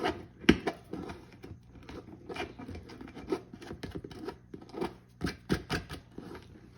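Scraping and trimming the rough edges of a freshly cut 1-inch hole in a plastic enclosure wall: a string of short, irregular scratching strokes, with a sharper click about half a second in.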